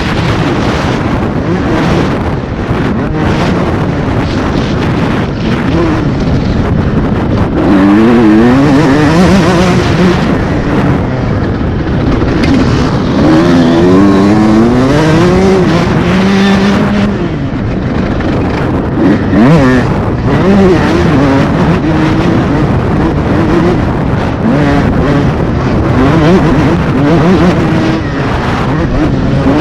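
125cc motocross bike engine being ridden hard, its pitch climbing and dropping again and again as the throttle is opened and shut, over a steady rushing noise.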